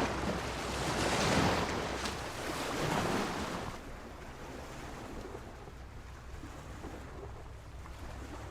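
Sea waves washing against a pier: a couple of surges in the first few seconds, the loudest about a second in, then a quieter, steady wash of water.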